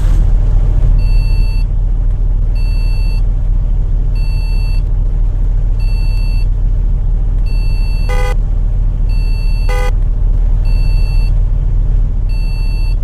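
Bus engine running with a steady low rumble while an electronic beep repeats about every second and a half. A couple of short, brighter tones sound twice in the second half.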